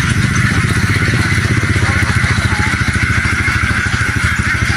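An engine running steadily with a fast, even chug and no change in speed.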